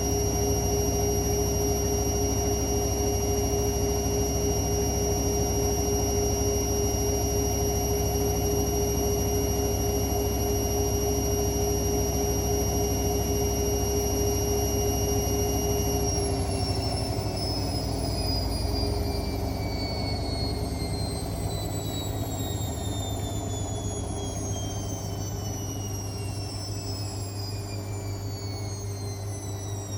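Hotpoint WML540 washing machine spinning at speed with a steady high motor whine. About halfway through, the whine starts falling steadily in pitch and the sound eases off as the drum spins down.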